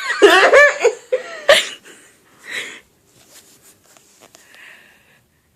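A woman's squeaky, high-pitched vocal noises that swoop up and down in pitch for about the first second and a half, followed by a few faint breathy sounds.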